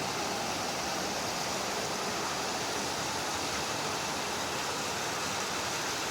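Heavy rain pouring down on a tin roof, a steady, even rush of noise.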